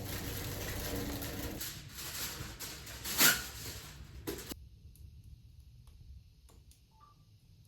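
Hissing crackle from the wood-burning stove, with two sharp pops, cutting off abruptly partway through; only a few faint ticks follow.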